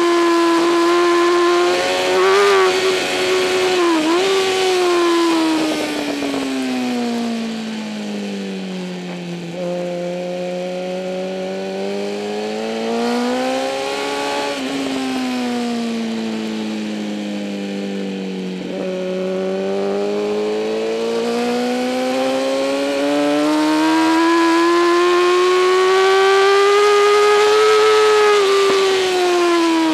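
Inline-four engine of a 2008 Kawasaki ZX-10R superbike at race pace. Its pitch falls twice as it slows, then climbs again, with a long steady climb under acceleration in the second half and a few quick dips and blips early on.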